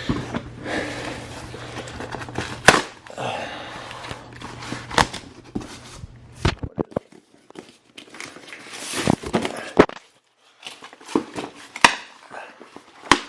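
A cardboard box and its packaging being opened and handled: crinkling and rustling, broken by several sharp snaps and knocks.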